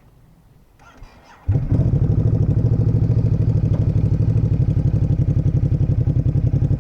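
Ducati SuperSport 950 S's 937 cc L-twin engine starting: a brief crank of the starter about a second in, then it catches suddenly and settles into a loud idle with an even pulsing beat.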